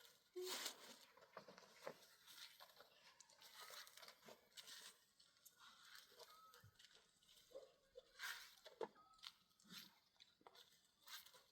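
Faint sounds of people eating: food being torn and chewed, with scattered small crunches and clicks.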